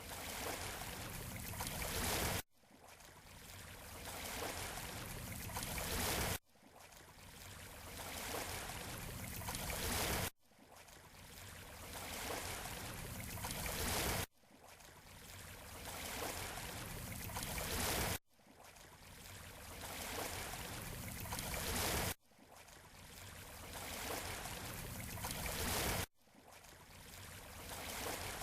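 Waves washing on a beach shore, played as a short loop: every four seconds or so the wash swells, then cuts off abruptly and starts again, about seven times.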